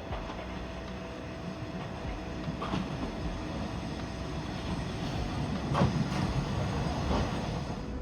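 Nishikigawa Railway diesel railcar running on the rails, a low rumble that slowly grows louder, with a few short sharp squeaks or clanks about three and six seconds in.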